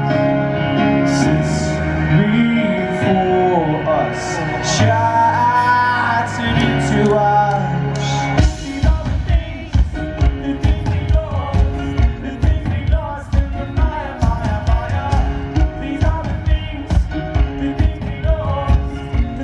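Live pop-rock band played through a festival PA, heard from the crowd: a held, sung melody over sustained chords, then about eight seconds in a fast, steady drumbeat kicks in under the band.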